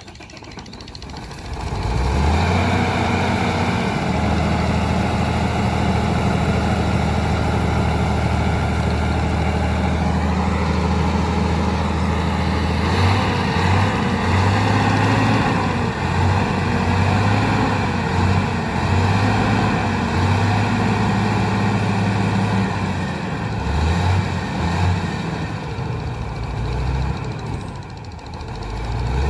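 Heavy diesel engine of the excavator or its transport truck, coming up loud about two seconds in and running steadily, its pitch wavering unevenly from about halfway on. A brief rising whine is heard around ten seconds in.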